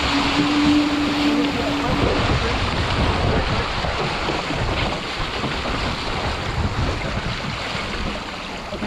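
Wind buffeting the microphone and water rushing along the hull of an RS800 sailing dinghy under way. A steady hum sounds for the first two seconds, then stops.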